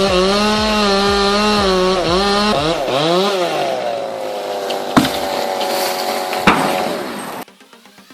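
Chainsaw running at high revs, held steady, then revved up and down a few times about two and a half seconds in before its pitch falls away as it winds down. Two sharp cracks come about five and six and a half seconds in, and the sound cuts off abruptly near the end.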